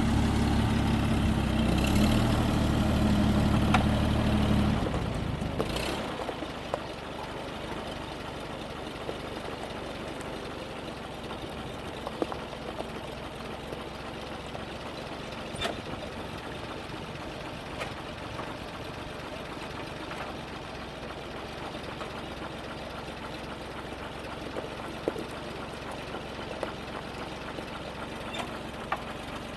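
Oliver Standard 77 tractor's six-cylinder gasoline engine running: louder for about the first five seconds, then dropping to a steady idle. A few small clicks are heard along the way.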